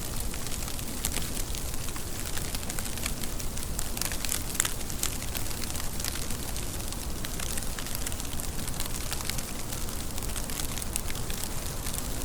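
Steady rain falling, with many sharp ticks of separate drops over an even hiss.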